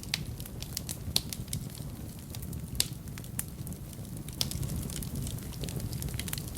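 Wood fire in a fireplace crackling: irregular sharp pops and snaps, a couple of them louder, over a low steady rumble of the burning flames.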